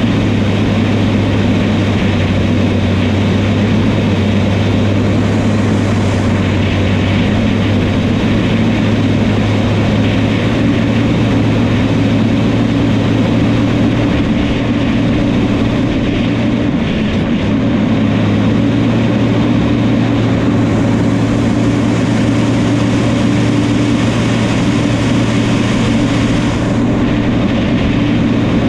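Crawler bulldozer's diesel engine running steadily at high throttle while working, a constant heavy hum with a brief dip about halfway through.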